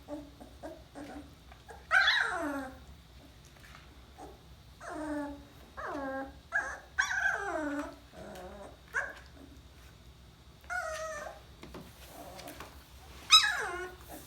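Two-and-a-half-week-old puppies whimpering and crying: a string of short, high cries that slide down in pitch, about eight in all, with faint squeaks between them. The loudest cries come about two seconds in and near the end.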